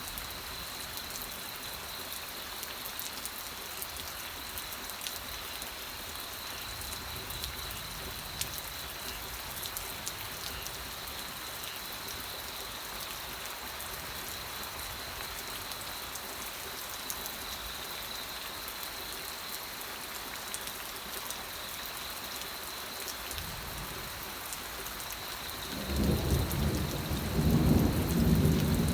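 Steady rain falling, a dense hiss with many individual drops pattering on surfaces. Near the end a loud low rumble of thunder rolls in.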